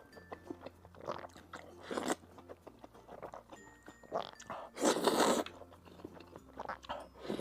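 Close-miked mouth sounds of a person eating: soft chewing and biting clicks, with two longer, louder noisy sounds about two and five seconds in.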